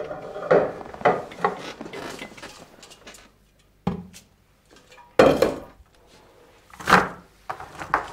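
Fresh green beans being handled and tipped from a stainless-steel bowl into a plastic bucket. It comes as a string of separate short noises, the loudest about four, five and seven seconds in.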